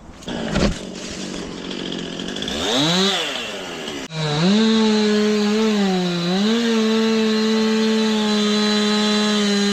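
Two-stroke chainsaw revving up about three seconds in, then held at high throttle through a cut, its pitch dipping briefly twice under load.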